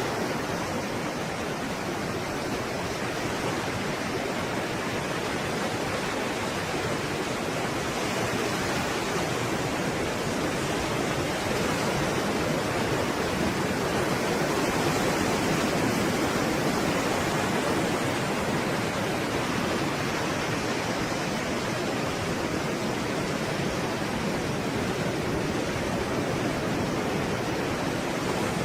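Stormy sea waves breaking continuously, a dense, steady wash of surf noise that swells slightly around the middle.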